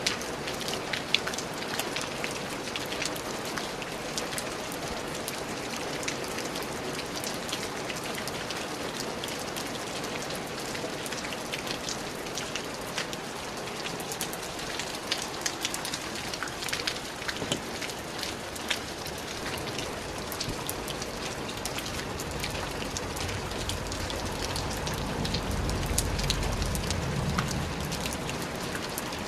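Steady rain falling, with many individual drops ticking close by. In the last few seconds a low rumble swells and fades beneath the rain.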